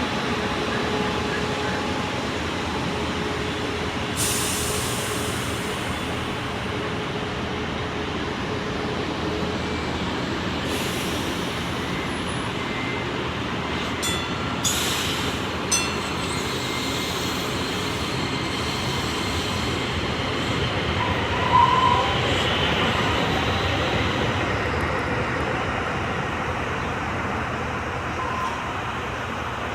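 Passenger train running on the track with steady wheel-and-rail noise. There are several short hisses near 4, 11 and 15 seconds in, and a brief louder moment about 22 seconds in.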